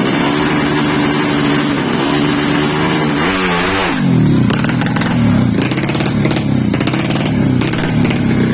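Drag-racing underbone motorcycle engines revving. The engine note holds steady, climbs sharply about three seconds in, then splits into several overlapping engine notes that fall and rise again.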